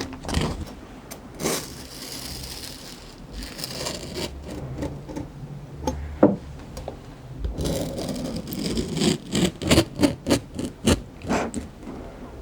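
Close-miked chewing of crunchy fruit: wet crunching and mouth clicks, thickening into a quick run of crunches in the second half.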